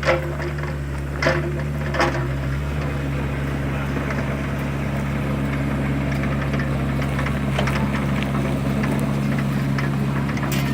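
Excavator's diesel engine running steadily, with sharp knocks about the start, a second in and two seconds in, then fainter clicks.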